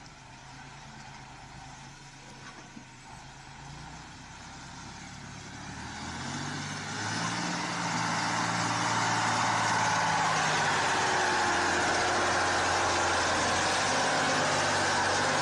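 Heavy truck's engine running, growing steadily louder through the first half and then holding loud and steady with dense engine and road noise.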